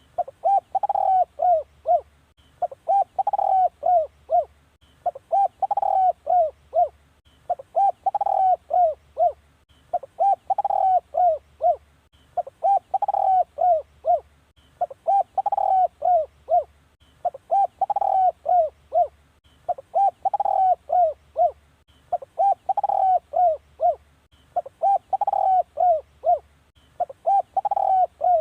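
Spotted dove cooing: phrases of several mellow coo notes, repeated steadily about every two and a half seconds.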